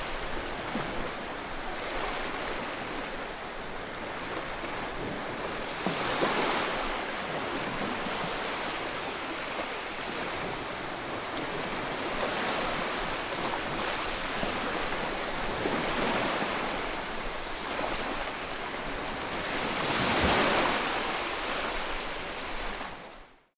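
Ocean waves breaking on a shore: a continuous wash of surf with louder breakers about 6 seconds in and again near 20 seconds. The sound cuts out abruptly for a moment at the very end.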